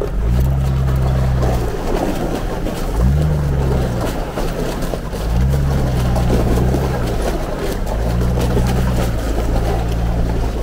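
A Jeep engine running under load. Its pitch climbs and drops back every couple of seconds, as the throttle is worked on and off.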